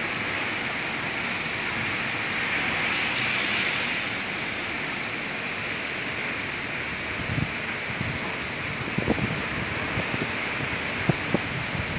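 Steady hiss of heavy rain in strong wind, with wind gusts thumping on the microphone more and more from about seven seconds in.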